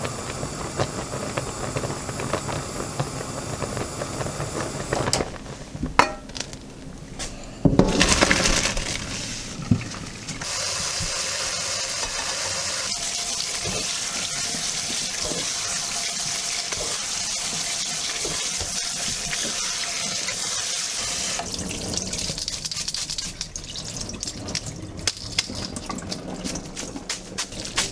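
Kitchen tap water running steadily for about ten seconds in the middle, with pots and dishes clattering before and after.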